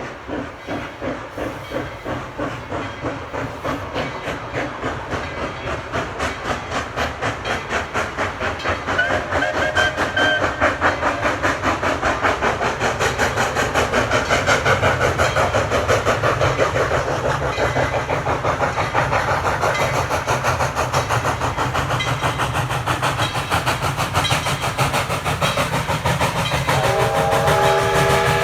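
Steam locomotive working hard, its exhaust chuffs quickening and growing louder as it gathers speed. Near the end a steam whistle starts sounding a chord of several notes.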